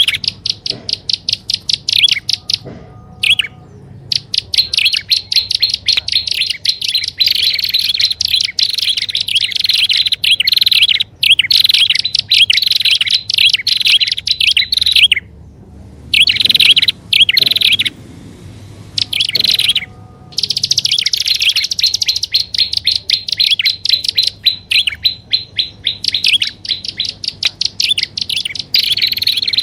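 Prinia (prenjak) calls on a bird-lure recording: long, rapid runs of sharp, high chirps, many a second, broken by a few short pauses.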